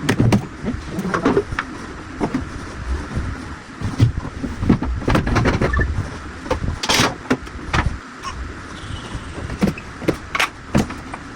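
Household handling noise: irregular knocks, clicks and clatter of objects being moved and set down, with a short scraping hiss about seven seconds in.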